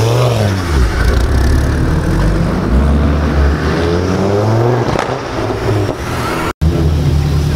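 Mk2 Ford Focus ST's 2.5-litre turbocharged five-cylinder accelerating hard as it pulls away, the engine note climbing and falling back several times as it shifts up through the gears. The sound cuts out briefly near the end, and another car's engine follows.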